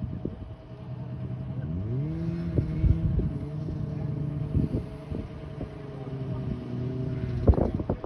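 Engine of heavy recovery equipment working: it revs up about two seconds in, holds at the higher speed under load, and drops away near the end, with scattered knocks and clanks over it.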